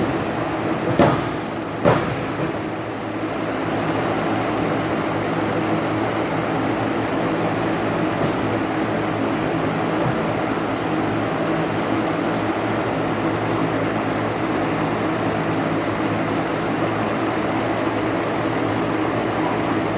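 Two sharp thuds about a second apart near the start, like bodies slamming onto a wrestling ring mat, over a steady background din.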